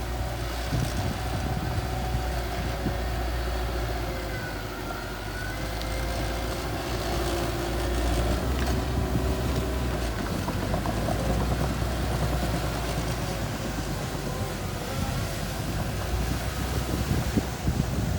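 Small bulldozer's diesel engine running steadily as it works, with wind buffeting the microphone.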